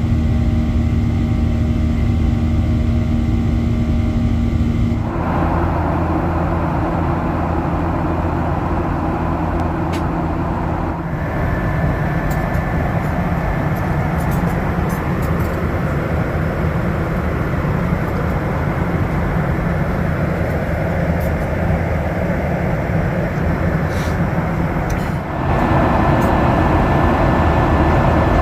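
Steady engine and airflow noise inside the cabin of a Boeing 737-800 airliner. Its character changes abruptly about five, eleven and twenty-five seconds in.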